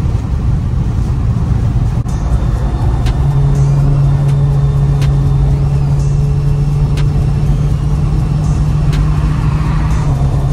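Infiniti Q50 3.0t's twin-turbo V6 pulling under acceleration at highway speed, heard from inside the cabin over tyre and wind noise. A strong steady low drone sets in about three seconds in and holds.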